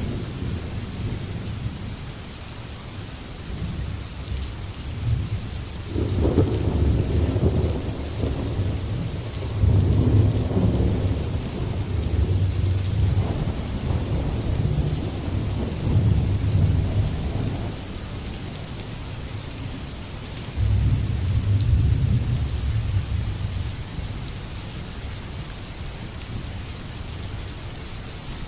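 Heavy rain falling steadily, with rolls of thunder rumbling low about six seconds in, again for several seconds from about ten seconds in, and once more past the twenty-second mark.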